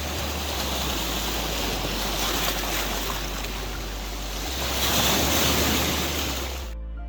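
Sea waves washing onto the beach, with wind buffeting the microphone; the surf swells a little about five seconds in. Near the end it cuts off abruptly to soft music.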